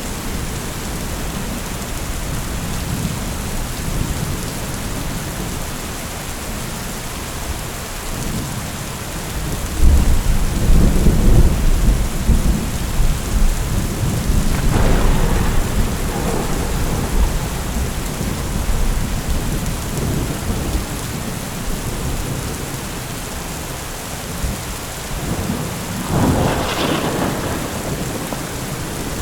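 Thunderstorm: steady rain with rolling thunder. A deep rumble swells about a third of the way in, a sharper thunderclap comes near the middle, and another near the end.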